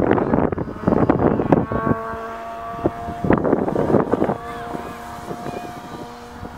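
Electric RC aerobatic plane's brushless motor and 15x8 propeller whining at steady pitches that shift in steps with the throttle, with gusts of wind buffeting the microphone loudly in the first two seconds and again about three seconds in.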